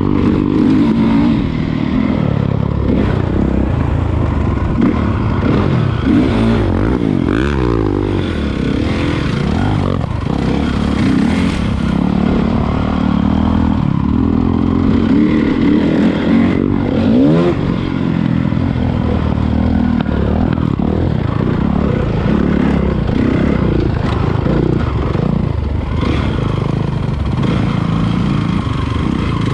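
Honda CRF450 motocross bike's single-cylinder four-stroke engine running at varying revs, with quick rising revs about seven seconds and again about seventeen seconds in.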